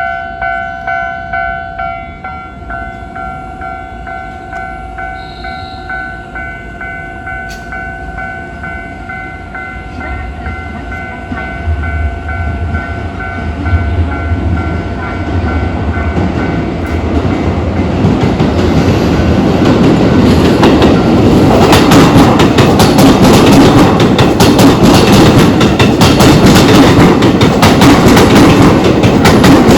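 Japanese level-crossing warning bell, the low-tone type, ringing in steady regular strokes. An electric train is heard approaching, first as a low rumble, then passing close by loudly from about the middle onward, its wheels clattering over the rail joints and covering the bell.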